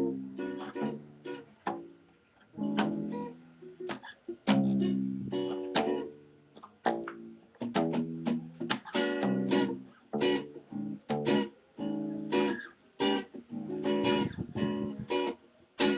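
Violão (nylon-string acoustic guitar) and baixolão (acoustic bass guitar) playing samba together: plucked chords over a bass line, with pauses between phrases.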